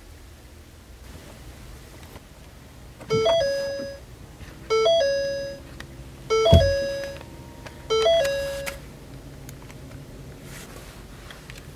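Ford C-Max's dashboard warning chime sounding four times, about every second and a half, each a short three-note electronic ding ending on a held tone. A low thump comes with the third chime.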